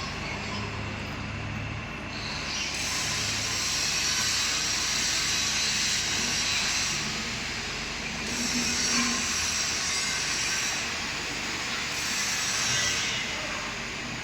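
Battery-operated platform truck running: a steady hissing noise that swells and fades several times, with a low hum in the first couple of seconds.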